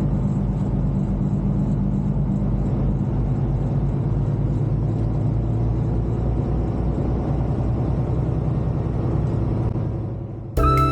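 Semi truck's diesel engine running steadily while driving, a low even rumble that fades out near the end as music comes in.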